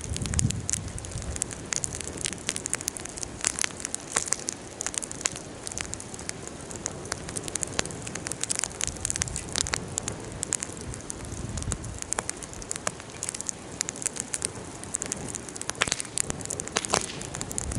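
Wood campfire burning in a fire pit, crackling with frequent irregular pops and snaps over a steady hiss of flame.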